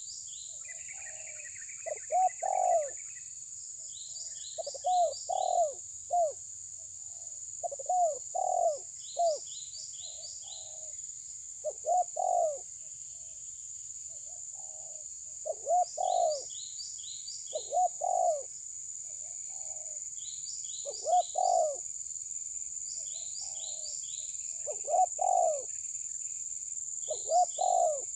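A bird calling: short low phrases of two or three notes, repeated about every two seconds, with a higher, quicker chirping over a steady high-pitched hiss.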